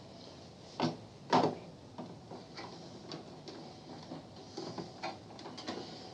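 Bench-work handling noises: two sharp knocks about a second in, then scattered light clicks and taps of tools and small parts being handled.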